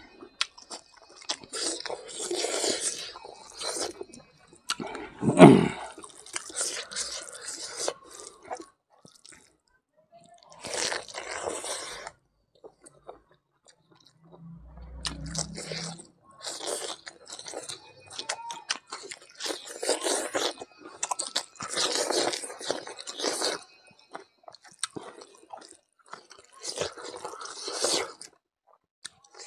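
Close-miked chewing and crunching in repeated bursts with short pauses between them: a mouth working through mithun intestine curry with rice and raw king chilli.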